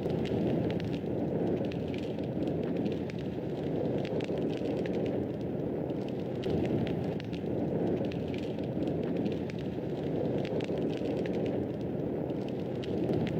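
Wood fire burning in a fireplace: a steady low rush of flame with many small crackles and pops scattered all through.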